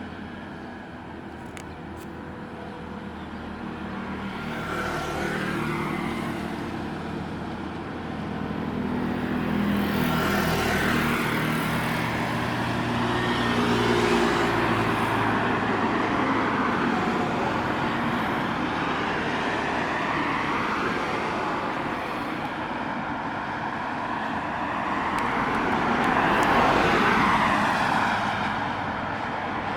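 Road traffic: several vehicles pass one after another, each swelling and fading, over a steady low rumble of engines.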